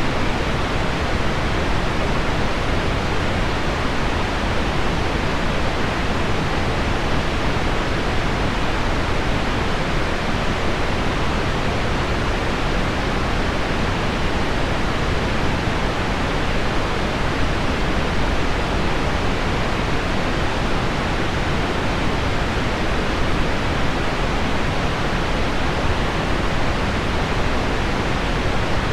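Heavy rain on window glass mixed with deep pink noise: a steady, unbroken hiss, weighted toward the low end, with no separate drops or events standing out.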